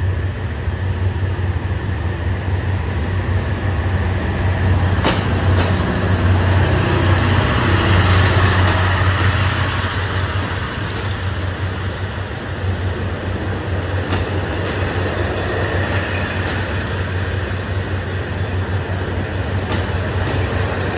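KiHa 183 series diesel railcar set running slowly past along the platform: a steady low diesel hum under wheel-and-rail rumble, loudest about eight seconds in, with a few sharp single clicks.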